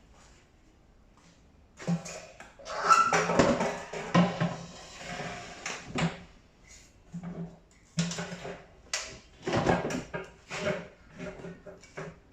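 Knocking, clattering and scraping of tumble dryer parts being handled and fitted together, in irregular bursts with the loudest stretches about three and ten seconds in.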